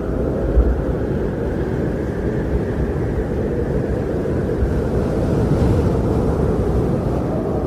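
Wind blowing in a snowstorm: a steady, low rushing noise with a deep rumble.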